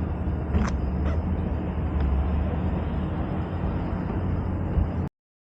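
Steady low rumble of a vehicle running, with road or wind noise and a few light clicks; the sound cuts off abruptly about five seconds in.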